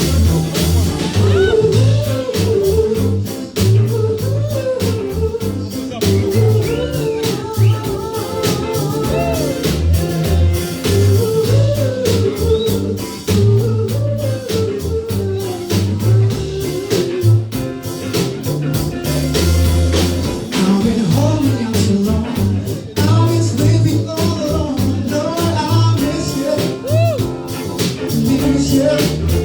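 Live cover band playing a soul-rock number: a steady bass line and drums under a sung melody with guitar.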